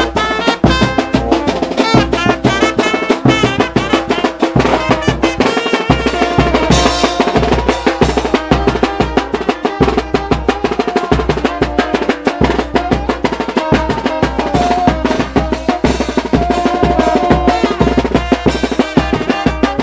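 Tanjidor brass band playing: a melody of held horn notes over a fast, steady drum beat.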